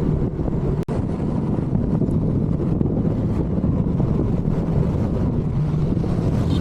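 Wind rushing over the microphone of a Honda ADV160 scooter while riding, with the scooter's engine running steadily underneath. The sound cuts out for a split second about a second in.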